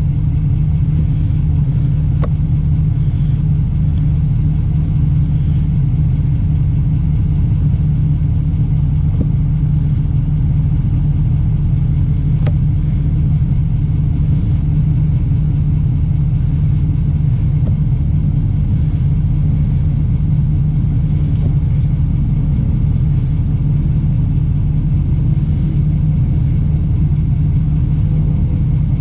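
Diesel vehicle's engine idling steadily during a particulate-filter regeneration, a constant low rumble.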